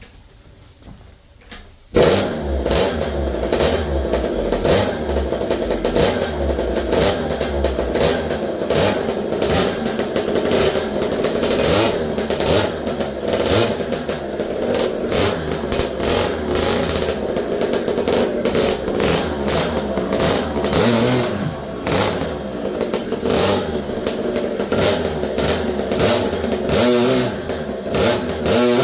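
A Husqvarna Husky Boy Jr's 50cc two-stroke engine comes in suddenly about two seconds in and runs with a rattly sound, its speed rising and falling as it is revved.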